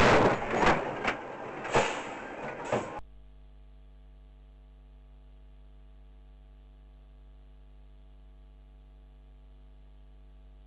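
Loud, noisy road sound with several sharp knocks for about three seconds, then it cuts off abruptly to a faint, steady electrical hum made of several fixed tones.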